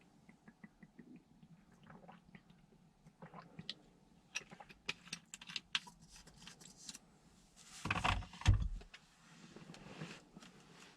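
A string of light clicks and taps, thickest in the middle, with one louder knock about eight seconds in, over a faint low hum.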